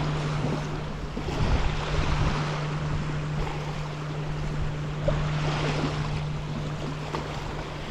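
Strong, gusty wind blowing on the microphone, swelling and easing every second or two, over a steady low hum.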